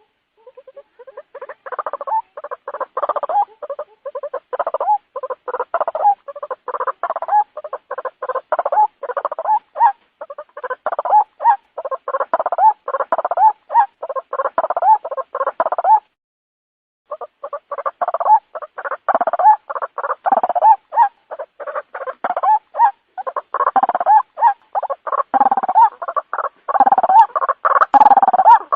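White-breasted waterhen calls played as a lure recording: a fast, unbroken string of short repeated notes, several a second, that stops for about a second past the middle and then resumes.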